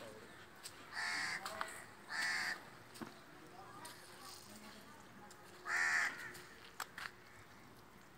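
A bird calling harshly three times, each call about half a second long: two about a second apart near the start, and one more a few seconds later.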